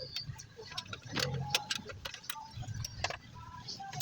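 Irregular metallic clicks and clinks of hand tools and loose parts during a car engine teardown, over a low hum.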